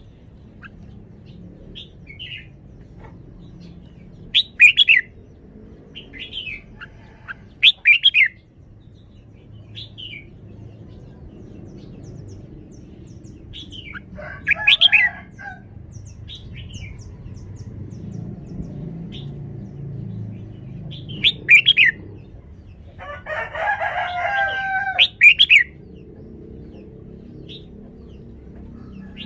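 Caged red-whiskered bulbul singing short, loud, chirpy song phrases every few seconds. A rooster crows once in the background, about three quarters of the way through, over a steady low hum.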